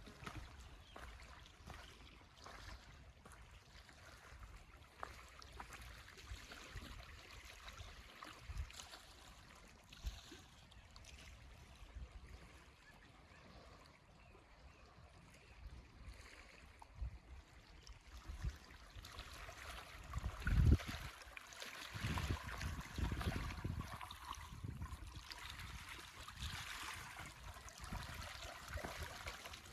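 Water trickling and gurgling in a stream, growing louder in the last third. Soft low thumps come now and then, the loudest one about two-thirds of the way through.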